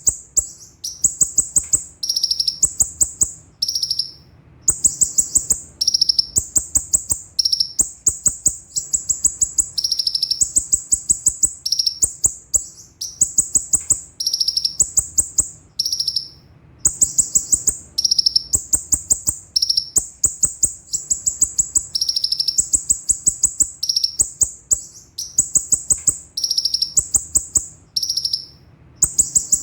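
Konin (kolibri ninja) sunbird singing continuously: rapid, high-pitched trilled phrases about a second long, switching back and forth between two pitches, separated by brief pauses.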